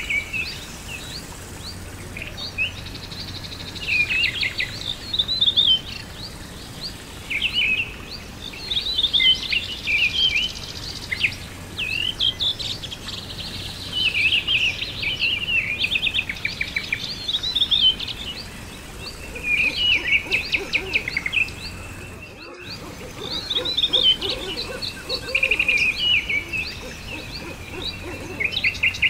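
Songbirds singing in short, repeated phrases of chirps and trills over a steady background hiss of outdoor ambience. The sound drops out for an instant about three-quarters of the way through.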